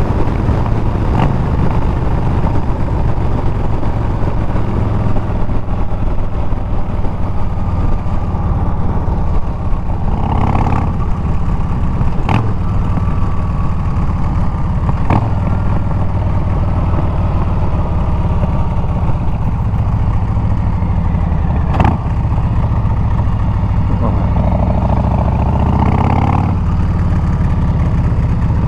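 Harley-Davidson Milwaukee-Eight 114 V-twin running through Bassani straight pipes while riding, its pitch easing up and down with the throttle. A few brief clicks stand out over the engine.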